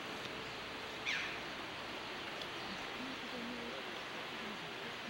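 Steady outdoor hiss with a single short, falling bird call about a second in.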